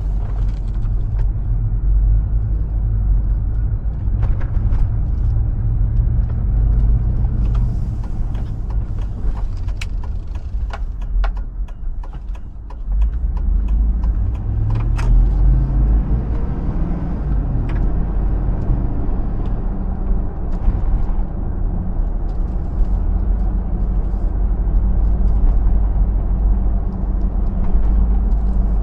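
Hummer H2's 6.0-litre V8 pulling the truck along with a steady low drone and road rumble, with scattered small knocks. About halfway through the sound drops briefly, then the engine note climbs again as it pulls.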